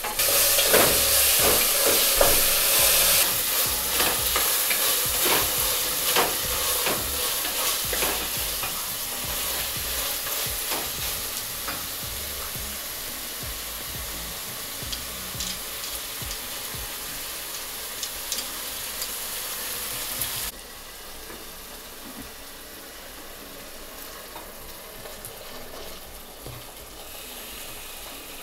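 Food frying in a pan, sizzling while it is stirred, with the utensil scraping and clicking against the pan. The sizzle is loudest at the start and fades, then drops suddenly to a quieter sizzle about twenty seconds in.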